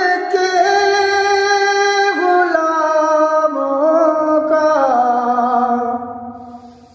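A man singing a naat unaccompanied, holding long ornamented notes that slide and step between pitches. The voice fades out near the end.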